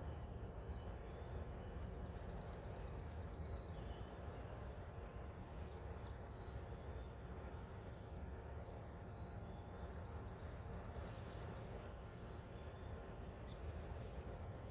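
A songbird singing: two rapid, high trills, each under two seconds, about two seconds in and again about ten seconds in, with short chirps between, over a steady low background rumble. No siren sounds.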